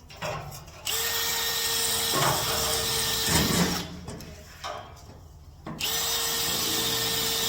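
Hand-held power tool run twice, each time for about three seconds, a steady whine with a strong hiss.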